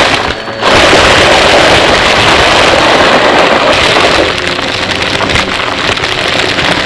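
Vacuum cleaner running close to the microphone: a loud, steady rush of suction airflow. It dips briefly about half a second in. About four seconds in it becomes a little quieter, and the motor's steady hum comes through.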